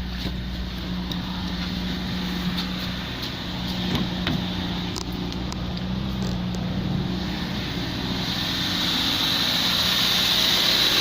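Subaru Impreza's 2.0-litre FB20 flat-four engine idling steadily, with a few light clicks around the middle. A hiss grows louder over the last few seconds.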